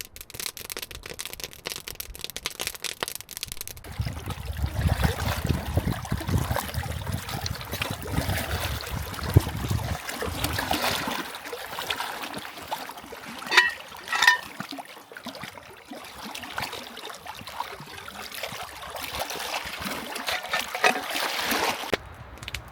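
Water trickling and splashing close by, after a few seconds of dense crackling clicks. Two short high squeaks come about two-thirds of the way through.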